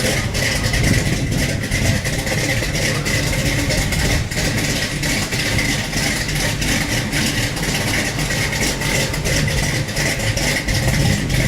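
A 1989 Chevy truck's 30-over 350 small-block V8, with a big cam and Hedman headers, running with a steady deep rumble. A steady high tone runs alongside it.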